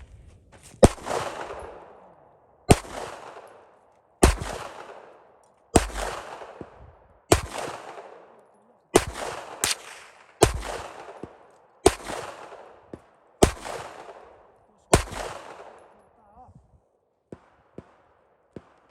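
Rifle fired at a steady pace: about eleven sharp shots, roughly one every one and a half seconds, two of them in quick succession about two-thirds of the way through. Each shot is followed by a long echo that dies away. The shots stop a few seconds before the end, leaving only a few faint clicks.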